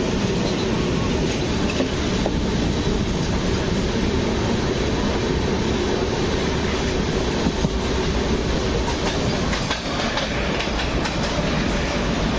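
Moving passenger train's wheels running on the rails, heard through an open sleeper-coach window: a steady rumble with a few faint clicks.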